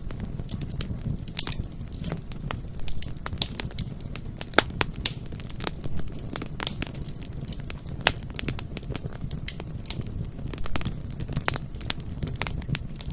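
Bonfire burning steadily: irregular sharp crackles and pops of burning wood, several a second, over a low steady rumble of the flames.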